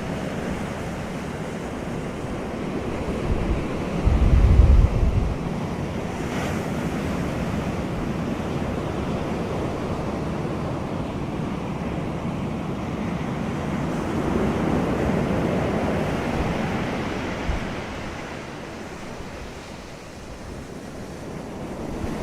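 Wind and surf: a steady wash of breaking waves and wind, with a heavy gust buffeting the microphone about four seconds in and the surf swelling about two thirds of the way through.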